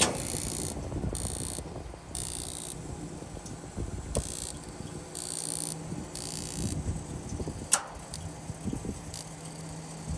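Raypak gas heater running: a low rumble with repeated short bursts of high hiss, a steady hum that sets in about halfway, and a few sharp clicks.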